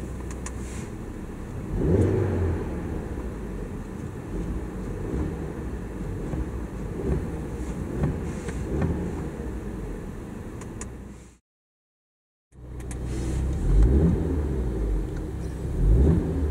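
Audi RS3's turbocharged five-cylinder engine idling and revved in short throttle blips while stationary, heard from inside the cabin, first through the stock exhaust. After a sudden break of about a second it revs again, louder, through a Supersprint cat-back exhaust.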